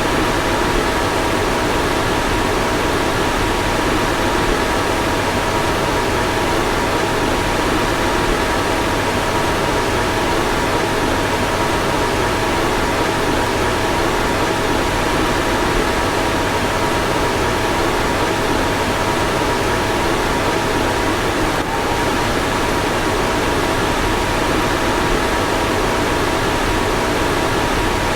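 A car's fan running steadily: a constant rush of air with a faint steady hum on top.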